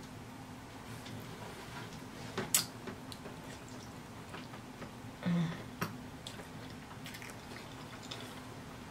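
Close-up eating sounds of a person biting into and chewing a lobster tail, with a few sharp wet mouth clicks and a short hum about five seconds in.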